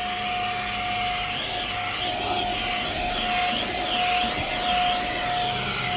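HŌM cordless electric air duster and mini vacuum running steadily: a high, even motor whine over a rush of air, with slight wavering as the nozzle is worked over the dashboard mat.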